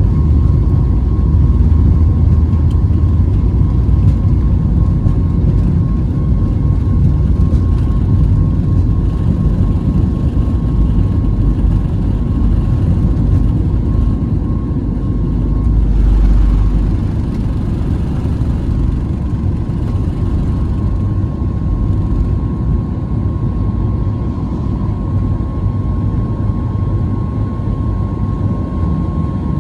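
Boeing 737 MAX 8 cabin noise during takeoff: a loud, steady low rumble of the engines and airflow, with a thin steady hum above it. The rumble swells about halfway through and then eases slightly.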